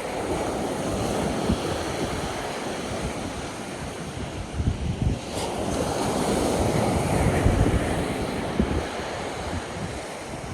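Ocean surf washing onto the beach, swelling louder twice as waves break, with wind buffeting the microphone.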